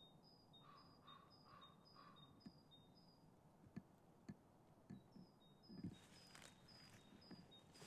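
Faint forest ambience: a small bird repeating a high two-note call about twice a second, with a few soft footsteps on the forest floor and a light rustle of branches brushed aside near the end.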